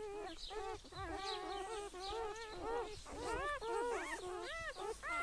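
A pet animal making a rapid run of short whining calls, each rising and falling in pitch, about three a second without a break.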